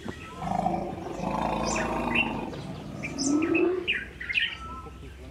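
Birds chirping: many short, high chirps throughout. A louder, lower sound lasts about two seconds near the start, and a short low call comes about three and a half seconds in.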